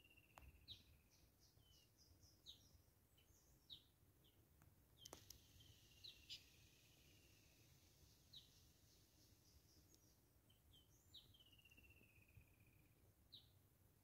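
Faint birdsong: scattered short high chirps and a falling trill about a second long, heard three times, over soft background noise. A few faint clicks.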